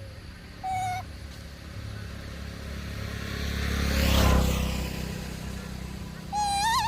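A passing motor vehicle: its noise swells to a peak about four seconds in, then fades. Short high-pitched calls sound just before the first second and again near the end, the last one rising and wavering.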